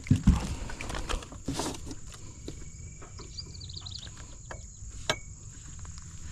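Steady high-pitched insect drone, with scattered clicks and knocks and a brief run of high chirps near the middle.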